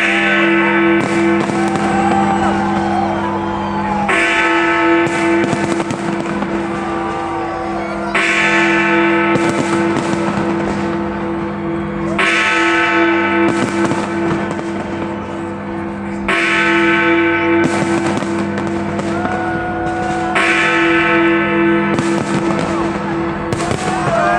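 A large bell tolls about once every four seconds, each stroke ringing on, while fireworks bang and crackle throughout.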